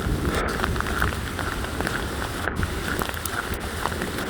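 Hailstorm: a steady hiss of falling hail and rain, with many small ticks of hailstones striking the ground.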